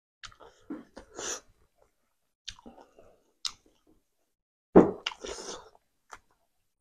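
A person chewing and smacking a mouthful of rice and smoked pork in axone gravy, in several short bursts with the loudest about five seconds in.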